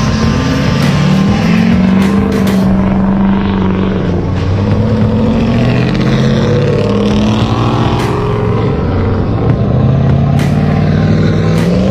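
Truck engines running and revving as the trucks pull away, their pitch rising and falling, with a rising rev near the end.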